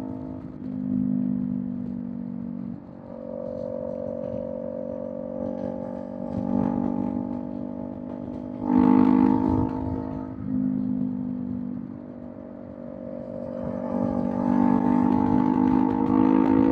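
Kawasaki Z400's parallel-twin engine through a Villain M1 aftermarket exhaust, riding at speed with the engine note stepping up and down as the throttle changes. It gets louder about nine seconds in and again near the end, over a low rumble of road and wind noise.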